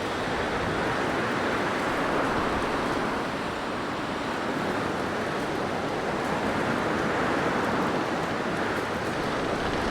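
Blizzard wind blowing as a steady rush of noise, swelling and easing slightly.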